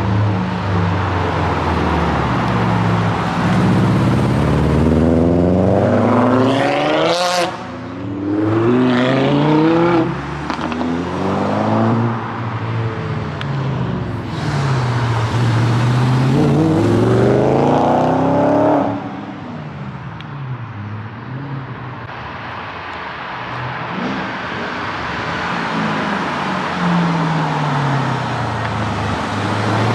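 Car engines revving and driving past. Their pitch rises and falls again and again as the throttles are blipped, with one sharp rising rev about seven seconds in.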